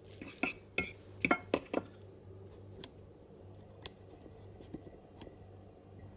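Metal utensils clinking against a pan and plate as pasta is served: a quick run of clinks in the first two seconds, then a few separate clicks.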